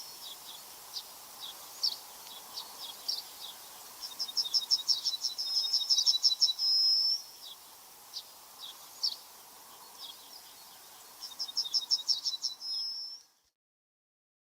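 A songbird singing: a fast run of high notes that ends in a held whistle, twice, with single chirps in between, over a faint steady background hiss. The sound cuts off to silence near the end.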